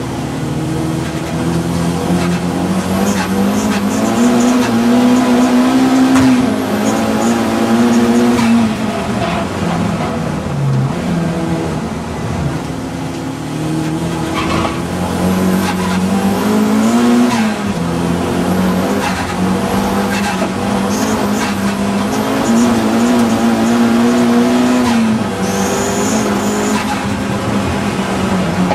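Audi TT saloon race car's engine under hard acceleration, its pitch climbing and then dropping sharply again and again as it works up and down the gears.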